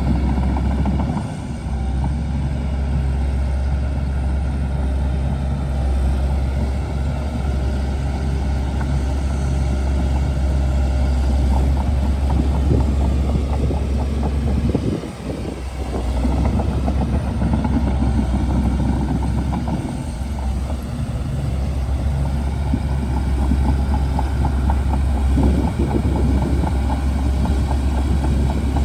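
Shantui DH17C2 bulldozer's diesel engine working, a steady low drone with a brief dip about 15 seconds in.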